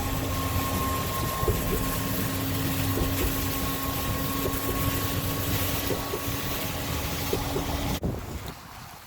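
Storm wind noise with a steady mechanical hum beneath it and a few faint ticks; the sound drops off abruptly about eight seconds in.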